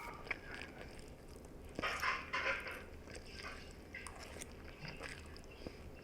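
A person chewing and eating, with scattered light clicks and a short crunchy patch about two seconds in.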